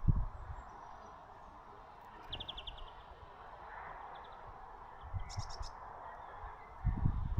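Small birds chirping at a feeder: a quick run of about six chirps a little over two seconds in, a short one near four seconds, and a few higher chirps about five seconds in. Low thumps at the start and near the end, over a steady background hiss.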